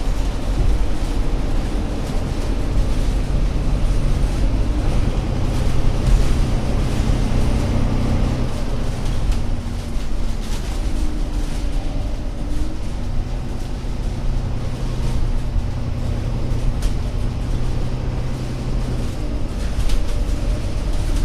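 Diesel engine of an Alexander Dennis Enviro500 MMC Euro 6 double-decker bus running under way, a loud steady low drone. Its note changes about nine seconds in and settles into a steady drone again a few seconds later.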